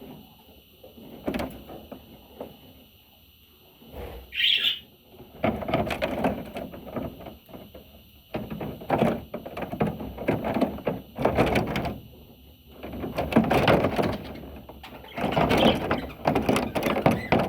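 Budgerigar chattering and warbling in scratchy bursts of a second or more, with a short high whistle about four seconds in.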